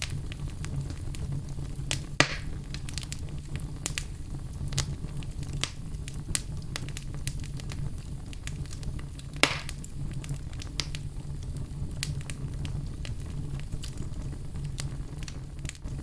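Wood fire burning in a fireplace, crackling steadily with scattered snaps over a low rumble, and two louder pops, about two seconds in and about nine seconds in.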